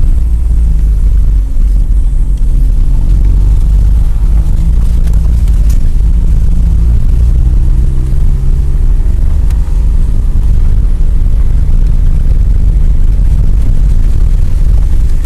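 Car engine and road noise heard from inside the cabin while driving: a steady heavy low rumble, with the engine's note drifting a little up and down.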